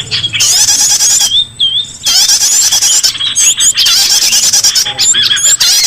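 Bird-lure recording of small songbirds calling: stretches of rapid, high trilling about a second long, broken by sharp chirps and quick sliding whistles, repeating over and over.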